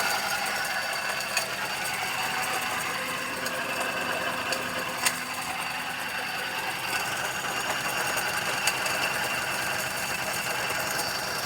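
2012 Suzuki Celerio engine running with a steady, rapid ticking clatter and a few sharper clicks scattered through it. The owner takes it for an abnormal engine noise.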